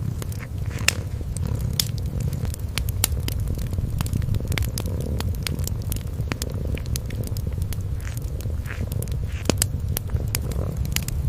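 A cat's low, steady purr under a wood fire crackling, with frequent sharp, irregular pops.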